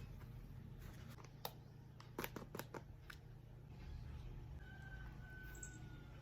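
Eating sounds: a sharp click about a second and a half in, then a quick run of four or five crisp clicks or crunches around two seconds in, over a low steady hum.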